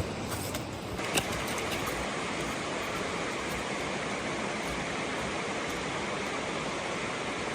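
Heavy rain pouring steadily, a dense even hiss, with one sharp crackle about a second in.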